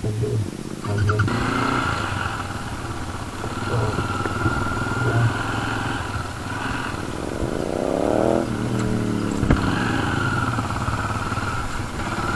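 Motorcycle engine running steadily, with a rising rev about seven seconds in that climbs for a second and a half, then drops away.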